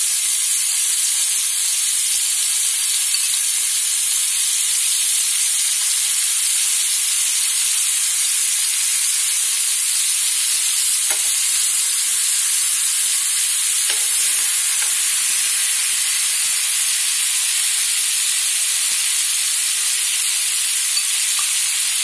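Yogurt-marinated paneer cubes shallow-frying in hot oil in a pan: a steady, high sizzling hiss, with a couple of faint ticks around the middle.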